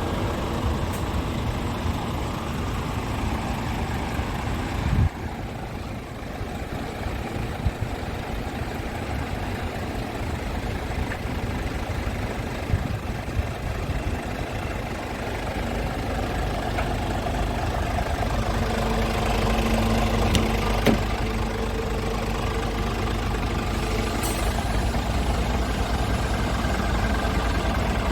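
Scania S410 truck's 13-litre inline-six diesel idling steadily. A single thump about five seconds in, after which the engine sounds duller.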